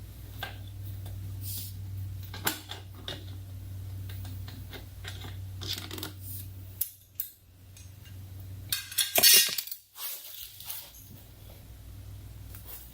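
Metal hand tools and bolts clinking and clicking as a socket wrench works on a motorcycle's cover bolts. The sharp clinks come scattered, with the loudest cluster about nine seconds in, over a steady low hum.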